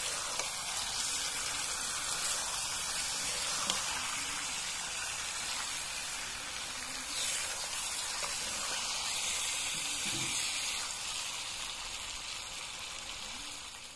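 Pork and potato curry sizzling and frying in a metal wok while it is stirred with a metal spatula, a steady frying hiss that gets quieter near the end.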